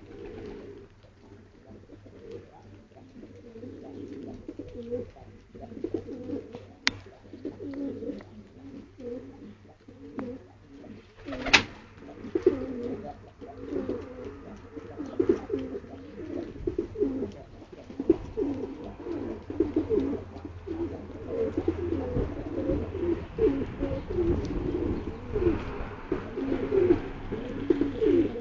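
Several domestic pigeons cooing over one another, the calls growing denser as it goes on. A sharp click sounds a little before halfway.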